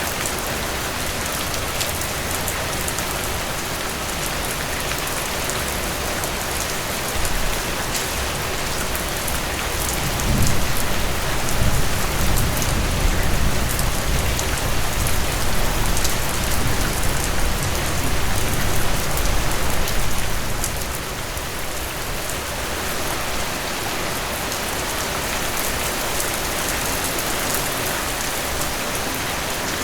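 Steady rain falling on a surface, a dense even hiss with individual drops ticking through it. A low rumble swells a third of the way in and fades out about two-thirds through.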